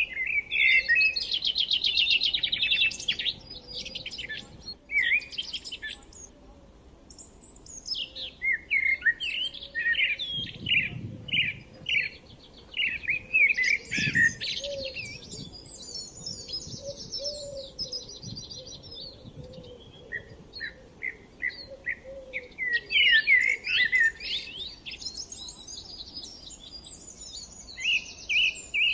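Forest songbirds chirping and singing, with overlapping calls and rapid trills that come in bursts with short pauses between them.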